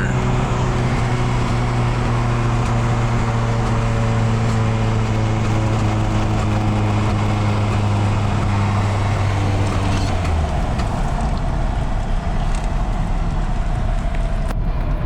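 Nissan 240SX's engine and exhaust droning at steady revs under way, the pitch sagging slightly; about ten seconds in the engine note drops away, leaving road and engine noise.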